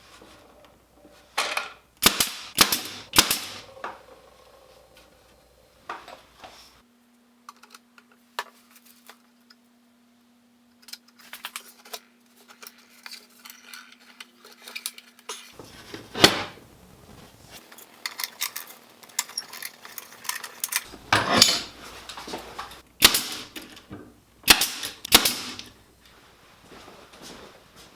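A series of sharp clacks and knocks of wood and tools being handled at the bench, coming in clusters. A quieter stretch in the middle carries a steady low hum.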